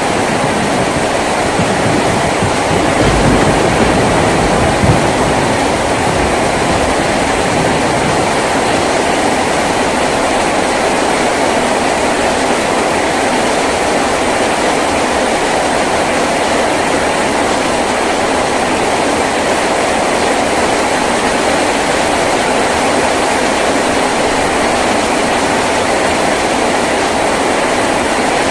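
Heavy rain falling steadily on a tin roof, a dense, even patter, with a low rumble in the first few seconds.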